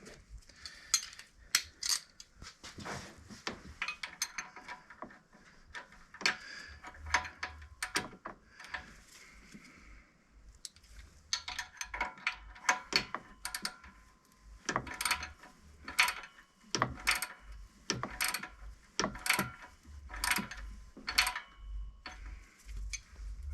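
Ratchet wrench clicking in short runs of strokes, with scattered metal clinks, as the bolts of the A/C compressor bracket are tightened.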